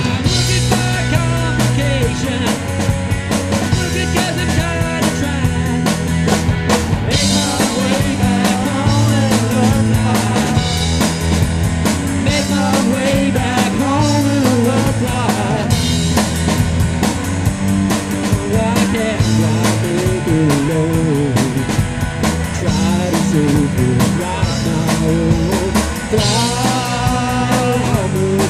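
Live rock band playing: drum kit and bass keep a steady beat under a melodic lead line that bends up and down in pitch.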